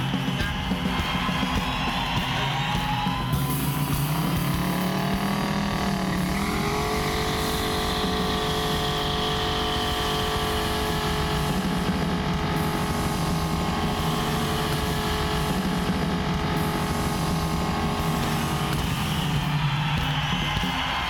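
Car engine revving up and down over loud music, then held at a long steady drone before it fades back into the music near the end.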